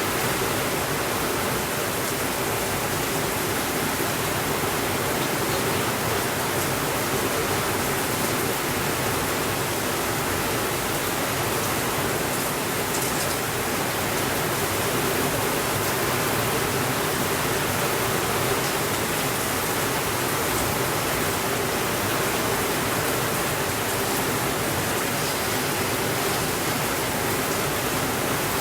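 Steady rainfall: an even, unchanging hiss with no thunder.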